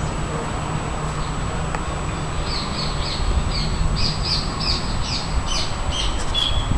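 A bird calling in a quick run of short, high notes, about three a second, starting about two and a half seconds in, over a steady low rumble.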